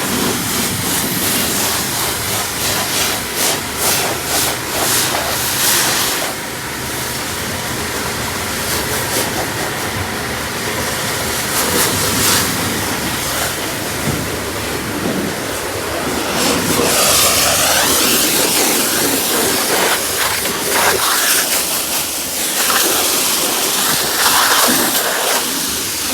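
High-pressure water spray hissing against a car at a car wash, surging and easing as the jet moves over the body.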